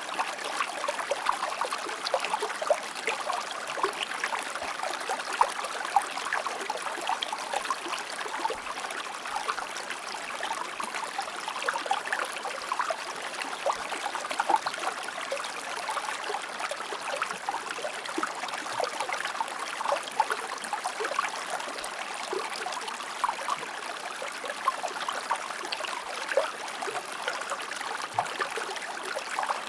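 River or stream water flowing and trickling over stones: a steady rush of water full of small splashes and gurgles.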